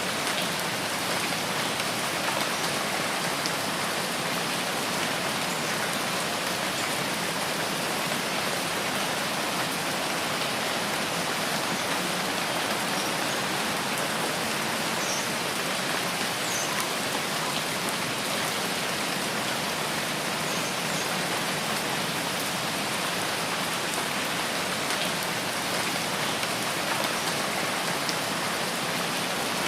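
Rain in a rain forest falling steadily and evenly, a continuous hiss of many drops.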